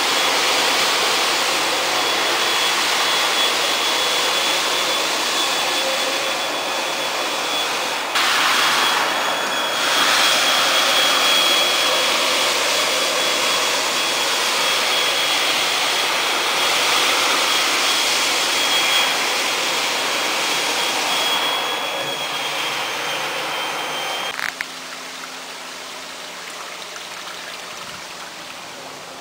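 Kärcher floor scrubber-dryer running, its suction motor giving a steady rushing noise with a high whine over it. The machine shuts off about 24 seconds in, leaving a faint low hum.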